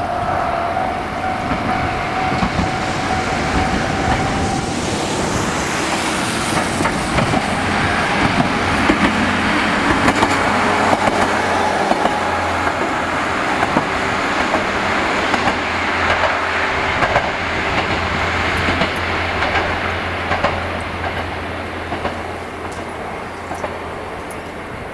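A train running past on jointed track, its wheels clicking over the rail joints. The sound builds to its loudest in the middle and eases off toward the end, and a steady high tone sounds for the first few seconds.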